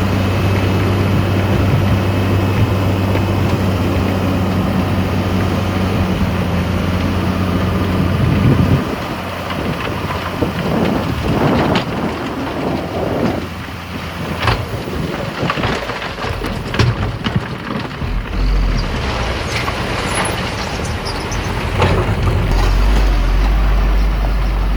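Heavy earthmoving machine's diesel engine running with a steady hum, which gives way about nine seconds in to a noisier stretch of knocks and rattles, with a deep rumble near the end.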